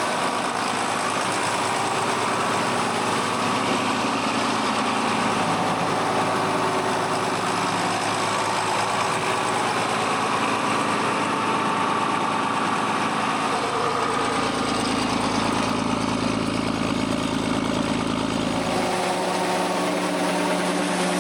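A large engine running steadily, its note shifting about five seconds in and again for several seconds from about the middle, when a deeper rumble joins it.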